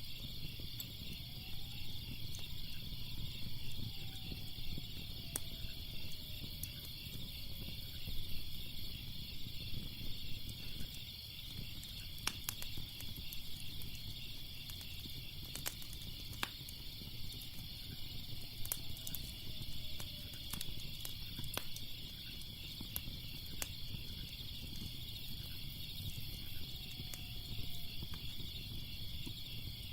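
Wood fire crackling with scattered sharp pops, over a steady pulsing chorus of crickets.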